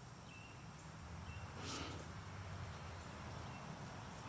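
Faint outdoor ambience: a steady high-pitched insect drone with a few short chirps over a low rumble, and one brief rustle near the middle.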